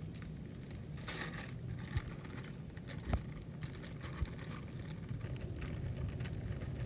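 Kitchen handling sounds as shredded carrot goes into a mixing bowl: scattered soft clicks and a few knocks, the sharpest about three seconds in, over a steady low hum.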